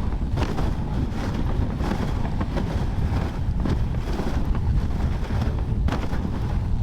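Wind buffeting the microphone on a moving dog sled, a steady rumbling rush with faint irregular scrapes and crunches from the run over snow and ice.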